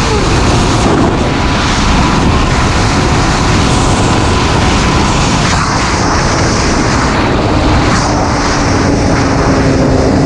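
Sport motorcycle running at road speed, its engine note mixed with loud, steady wind rush over the rider-mounted microphone.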